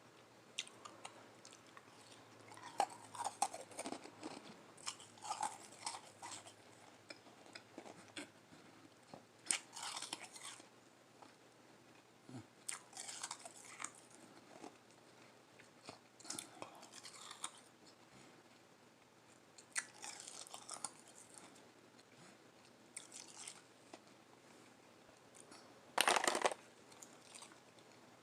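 Close-up chewing and crunching of soft shaved ice, in irregular bouts every second or two, with one louder crunch near the end.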